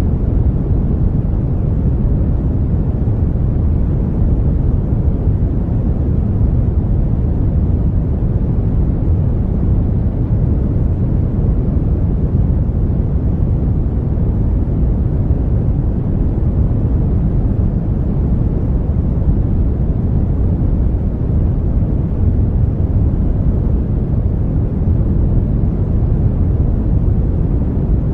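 Brown noise: a steady, deep rushing hiss with most of its weight in the low rumble and little treble.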